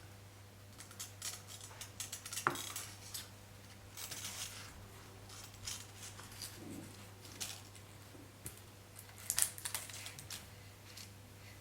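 Scattered light clicks, taps and rustles of small objects being handled, with one brief ringing clink about two and a half seconds in.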